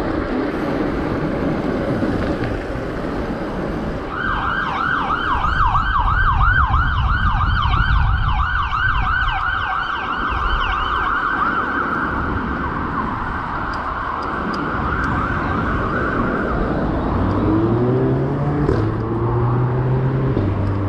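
Emergency vehicle siren in fast yelp mode, rapid rising sweeps several times a second, starting about four seconds in and stopping a few seconds before the end, over wind and road noise.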